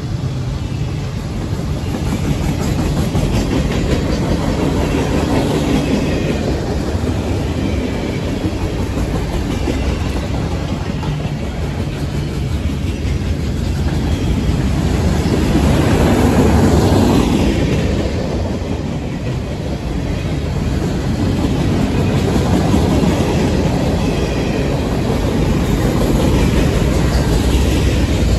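Freight cars of a CSX manifest train rolling past: a steady rumble of steel wheels on rail with clickety-clack, growing louder about halfway through.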